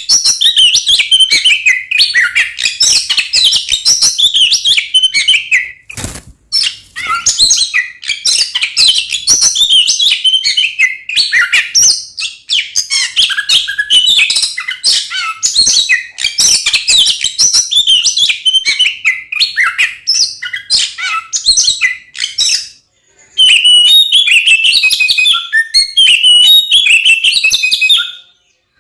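Oriental magpie-robin (kacer) singing loudly in a fast, continuous run of varied whistled and scratchy notes, pausing briefly three times. It is the full, aggressive song of a bird in fighting mood.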